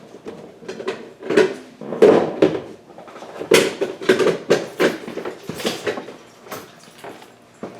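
Metal tools and parts clinking and clattering as they are handled and knocked together, in irregular bursts of sharp clanks, loudest about two and three and a half seconds in.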